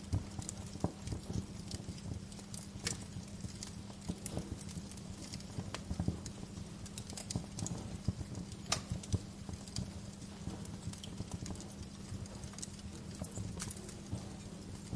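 Wood fire crackling, with frequent irregular small pops and one sharper snap a little past halfway, over a soft steady hiss.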